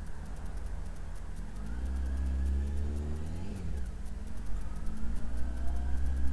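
Honda Hornet 900 motorcycle's inline-four engine accelerating, its pitch climbing, dropping once about halfway through and climbing again.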